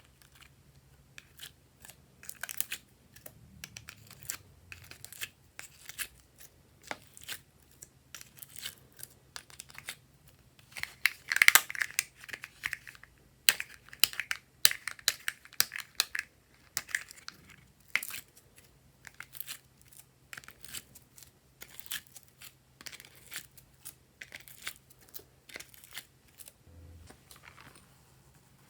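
Glossy slime being squished and stretched by hand, giving irregular sticky pops and crackles, with a denser, louder run of them about eleven seconds in.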